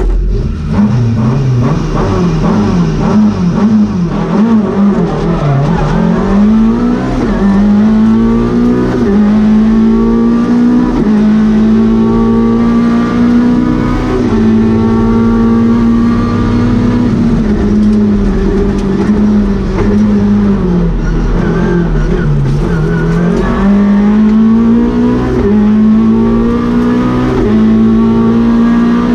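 Lada VFTS rally car's four-cylinder engine, heard from inside the cabin, pulling away from the stage start and revving hard through the gears. Its pitch climbs and drops sharply at each gear change, with a brief lift and dip about two-thirds of the way in.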